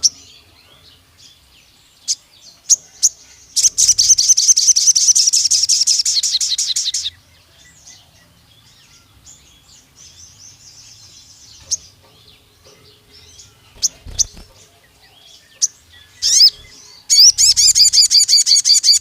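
Sogon songbird singing: scattered sharp chirps, then a long, fast, loud trill of about three and a half seconds. A fainter trill, a few single calls and a downslurred note follow, then a second loud, fast trill starts near the end. This is the long rapid trill that keepers call "nembak panjang", used as a lure call to rouse other sogons.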